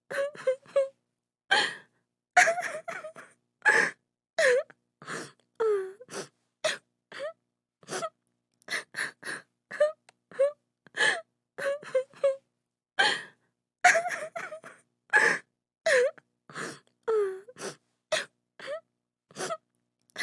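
A woman crying in short, broken sobs and gasping wails, some falling in pitch, with brief silences between them.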